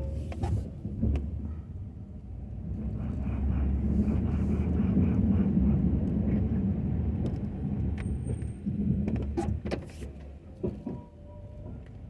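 Ford F-250 pickup's engine running under a snow plow, growing louder for a few seconds in the middle. A sharp click or knock comes at the start and a few more come near the end.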